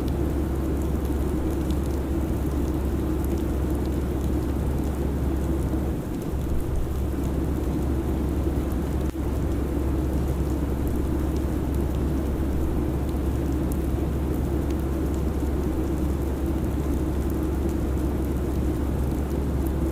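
Steady airliner cabin noise: a constant low rumble with airflow hiss over it, dipping briefly about six seconds in.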